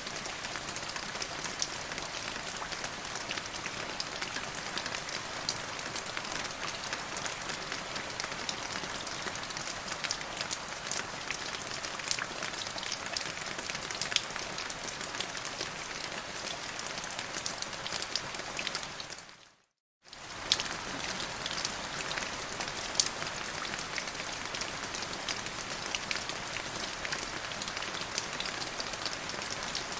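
Steady rain, a dense patter of many small drop impacts. About twenty seconds in, the sound fades out for a moment and comes straight back.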